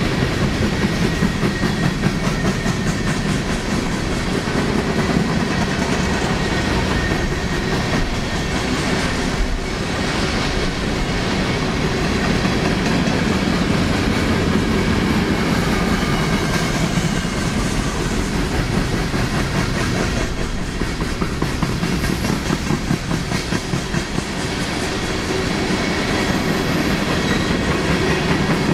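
Freight train of empty coal hopper cars rolling past at a steady speed, the steel wheels clicking over the rail joints in a continuous clickety-clack over a steady rumble.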